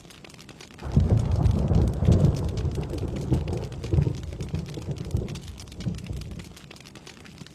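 Thunder rolling over steady rain: a rumble that breaks in suddenly about a second in, crackles and swells for a few seconds, and dies away near the end, leaving the hiss of falling rain.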